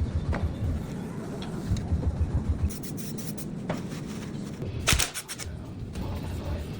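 Handling noises: rubbing and low bumps with scattered clicks, and one sharp knock about five seconds in.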